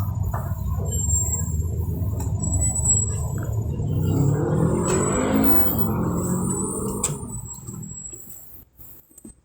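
A vehicle running, heard from inside its cabin: a steady low rumble with a whirring swell in the middle. The whirr stops abruptly about seven seconds in, and the sound then dies away to quiet.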